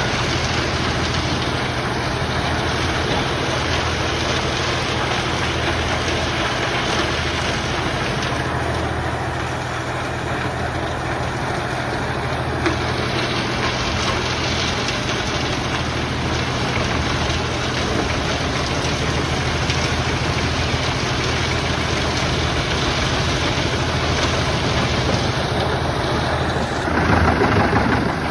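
Fendt 1042 Vario tractor running steadily to drive an Eschelbach Biber 92 wood chipper as logs are fed in: a steady low engine hum under a dense rushing noise from the chipping. Near the end the sound grows louder and rougher.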